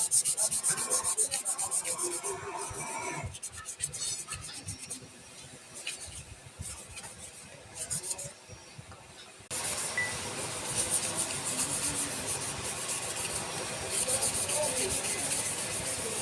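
Wood being cut and sanded on a lathe: a rasping, scraping noise that comes in quick uneven strokes at first. About two-thirds of the way through it switches abruptly to a steadier, denser hiss.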